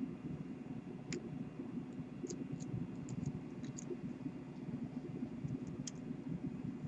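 Light, irregular clicks and taps of small metal tools working on a rebuildable drip atomizer, most likely a screwdriver on the post screws, about seven in all, over a steady low background hum.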